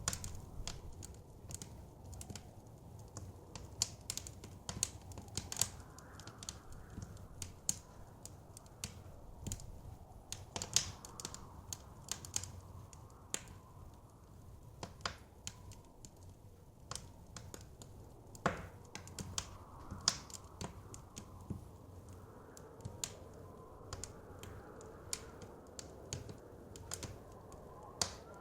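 Wood fire crackling, with irregular sharp pops of varying loudness several times a second, over a soft steady rumble of wind.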